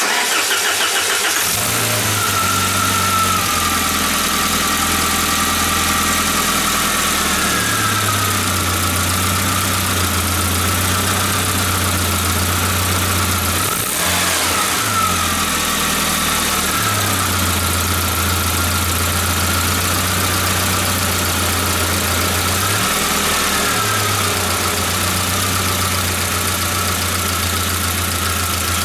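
1994 Saab 9000's engine idling, a steady hum whose speed dips and shifts a few times, with a high wavering whine alongside.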